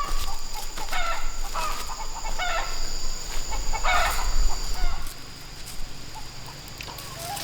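Chickens clucking in a quick run of short calls, about two a second, with a louder, longer call about four seconds in; the calls stop about five seconds in.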